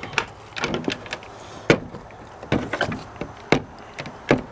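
A skeleton key and mortise door lock being handled: a string of sharp metallic clicks and clunks at irregular intervals.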